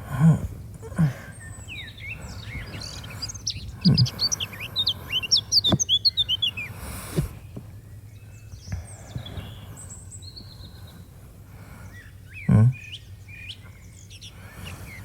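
Small birds chirping in quick, busy runs of short high notes, heaviest in the first half, as a morning birdsong background. A few dull low thumps sound over it, the loudest about four seconds and twelve and a half seconds in.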